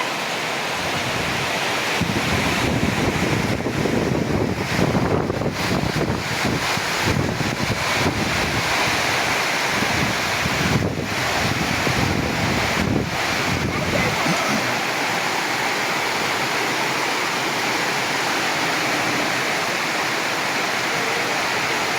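Heavy rain pouring in a steady hiss, with gusts of wind buffeting the microphone as a low, uneven rumble from about two seconds in until about fourteen seconds in.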